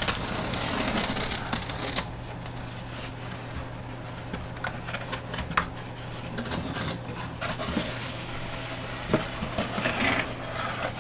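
Cardboard and paper packaging of a trading-card box rustling and scraping as it is handled and opened, with scattered light clicks and taps.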